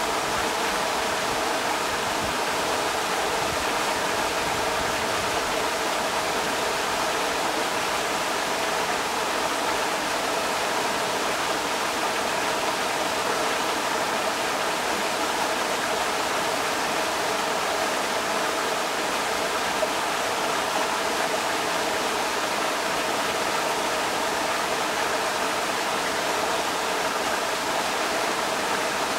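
Creek water rushing steadily over rocks, an even, unbroken wash of sound.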